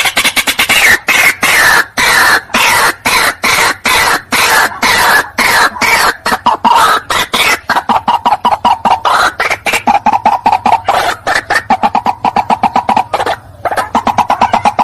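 White-breasted waterhen calling: a long, loud series of short harsh notes, about four a second and getting faster, with a brief break near the end. It is a recorded lure call.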